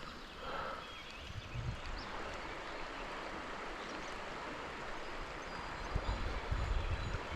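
Steady hiss of rain and a running creek, with a few low bumps near the end.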